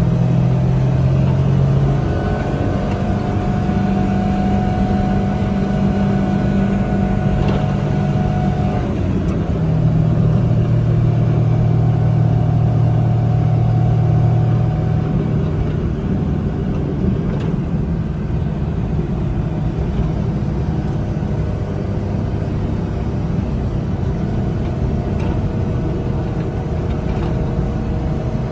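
1999 Suzuki Carry DB52T kei truck's small three-cylinder engine running on the move, with road noise underneath. The engine note holds steady, then shifts pitch a few times in the first half and settles lower and steadier.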